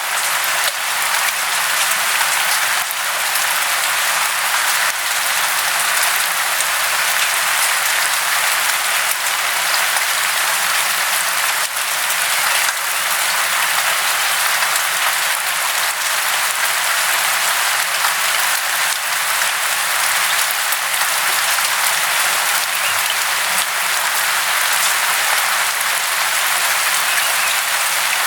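Falling water making a steady, dense hiss full of fine crackle, with almost no low rumble.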